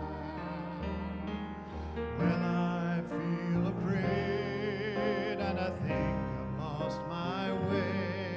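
A slow worship song: a voice singing held notes with vibrato over piano and sustained low accompaniment.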